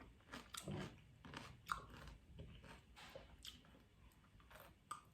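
Faint chewing of raw cucumber: a string of short, irregular wet crunches, closer together in the first half and sparser later.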